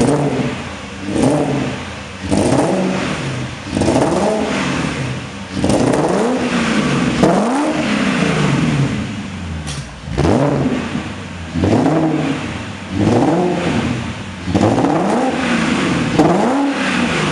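A BMW 540i V8 revved through an aftermarket sport exhaust, in short repeated blips. Each rev rises and falls in pitch, about one every second or so, with a couple of longer revs in the middle.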